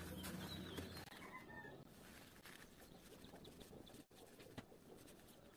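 Near silence: faint outdoor background with a few faint bird chirps, and a low hum that fades out within the first second.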